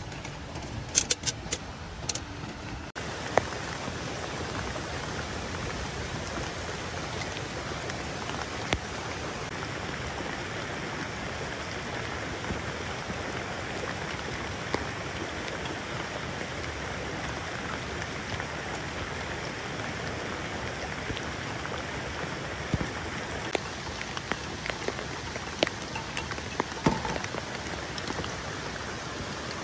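A few sharp clicks of chopsticks against a metal pot in the first couple of seconds, then a steady, even rush of rain and a shallow stream running over rocks, with scattered light ticks near the end.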